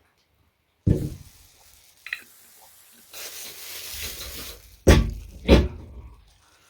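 Close-miked eating sounds: a sudden loud wet bite about a second in, then a stretch of crackling, wet noise, and two loud thuds a little past halfway.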